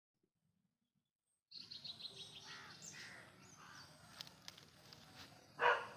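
Outdoor ambience with birds chirping, cutting in about a second and a half in, with a few faint clicks and one brief louder call just before the end.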